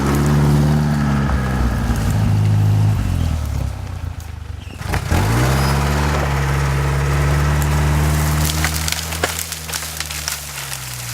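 GAZ-69's four-cylinder engine pulling under load as the vehicle drives in. The revs dip briefly about four and a half seconds in, then pick up and hold. Sharp cracks sound near the end.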